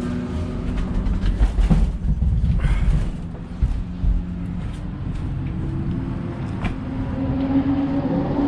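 Race car engines running, with an engine note rising in pitch near the end, and a few sharp metallic clanks in the first half.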